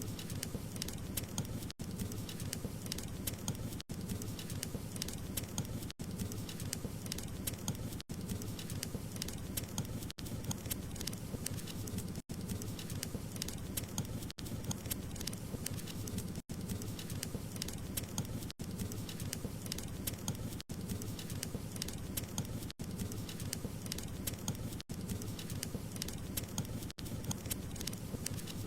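Wood fire crackling steadily with many small pops and snaps, broken by brief silent gaps about every two seconds.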